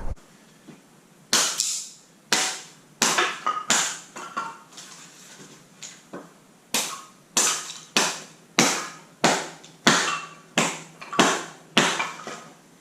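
A hatchet splitting kindling: a series of sharp chopping knocks, spaced unevenly at first, then a steady stroke about every two-thirds of a second, each ringing briefly in a small room.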